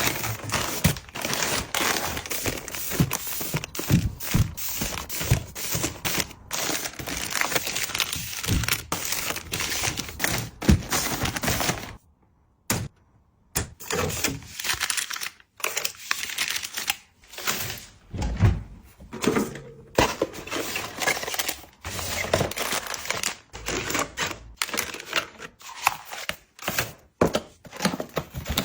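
Packaging being handled and opened: quick irregular tapping, clicking and crinkling, with a pause of about two seconds roughly twelve seconds in.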